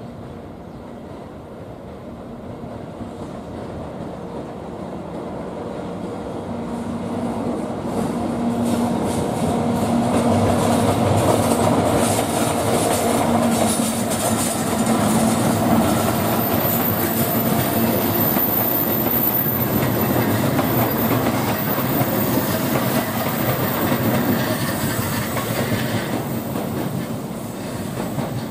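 EF64 1000-series electric locomotive hauling a four-car E235 series EMU past, its wheels clacking over rail joints. It grows louder over the first ten seconds as it approaches and then holds steady. A thin high wheel squeal joins in the second half.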